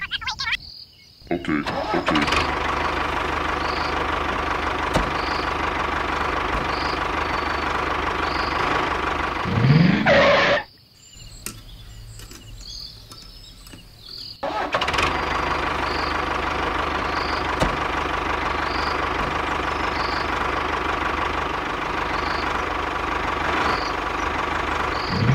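A small motor running steadily with a constant hum. It drops away about ten seconds in, just after a short rising whine, and runs again steadily about four seconds later.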